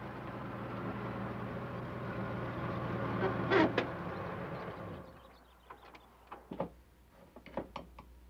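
Car engine running and growing louder, with a sharp double knock about three and a half seconds in, like a car door shutting. The engine fades out after about five seconds, and light metallic clinks follow: a spoon tapping against a small metal sugar bowl and mugs.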